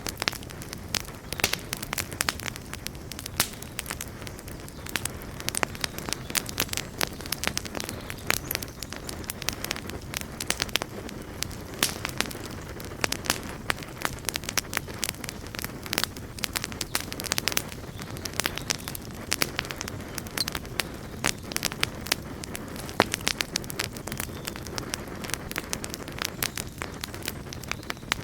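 Campfire burning: a steady low rush of flames with dense, irregular sharp crackles and pops from the burning wood.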